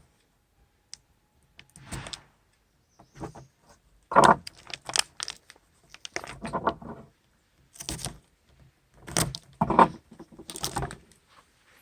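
A plastic-wrapped package of ground meat being torn open and handled: irregular crinkling and rustling of the wrapping, with a few louder bursts.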